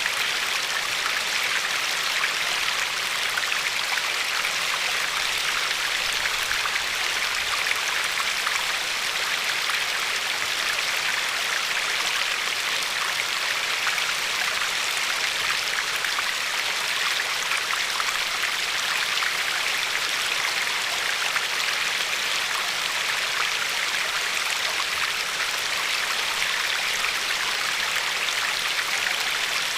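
River water flowing and lapping over a pebbly shore: a steady, even rush of water without breaks or separate splashes.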